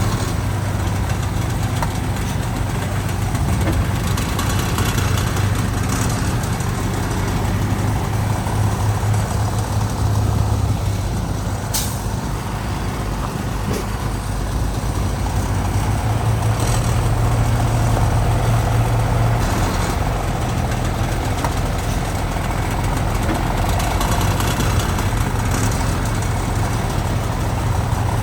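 Heavy diesel earthmoving machinery running steadily, the engine note swelling and easing as it works, with one sharp short sound about twelve seconds in.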